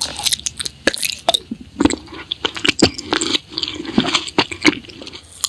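Close-up chewing and biting of food, with many sharp, irregular crunches.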